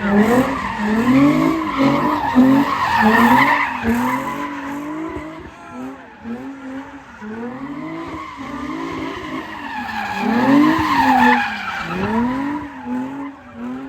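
A car engine revving up and down over and over, roughly once a second, with tyres screeching as the car spins them. It is loudest in the first few seconds and again near the end.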